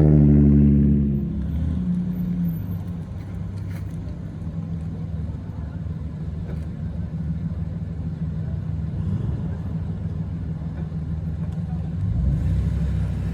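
Custom cars with aftermarket exhausts driving past: one car's exhaust is loud at first and fades away within the first second or so, a steady low exhaust drone follows, and another car comes up louder near the end.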